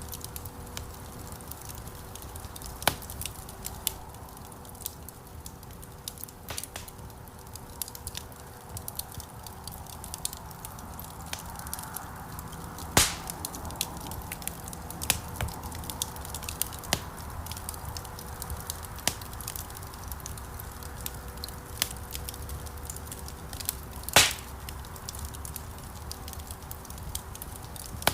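Wood fire burning in a fireplace: a steady low rush of flames with frequent, irregular sharp crackles and pops from the burning logs, two of them louder, about halfway through and near the end.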